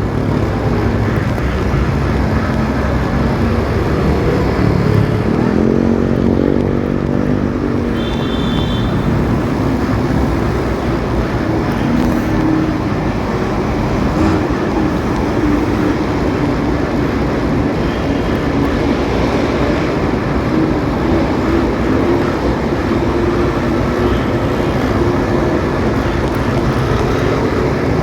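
Motorcycle engine running while riding in city traffic, heard from on board with a steady rush of road and wind noise. The engine pitch shifts as the rider changes speed, and a short high beep sounds about eight seconds in.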